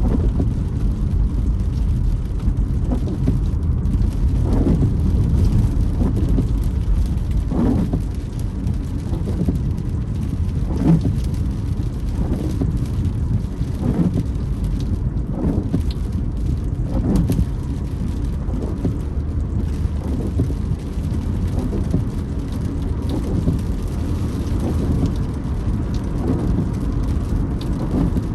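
Car windscreen wipers creaking on each sweep, a short squeak about every one and a half seconds, over the steady rumble of the car driving on a wet road in rain, heard from inside the cabin.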